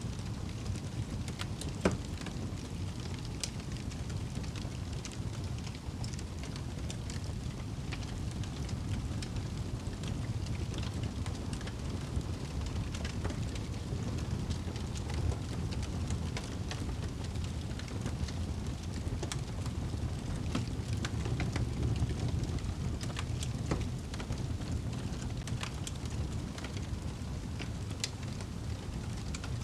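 Wood fire crackling in a fireplace: a steady low rumble of the flames with frequent scattered sharp pops, one louder pop about two seconds in.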